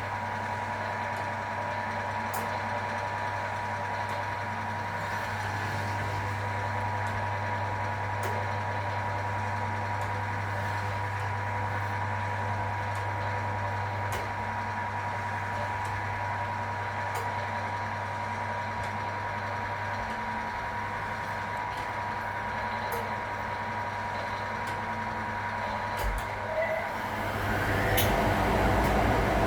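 A 1961 AEG Lavamat Noris front-loading washing machine running, a steady motor hum with a thin steady tone over it and a few faint clicks. Near the end it gets louder and lower.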